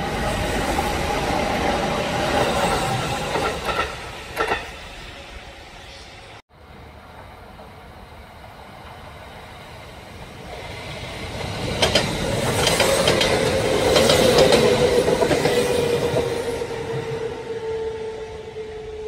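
Kintetsu electric trains passing close by, their wheels clacking over the rail joints. One pass fills the first few seconds and cuts off suddenly. A second builds up about twelve seconds in with a run of clacks, then fades.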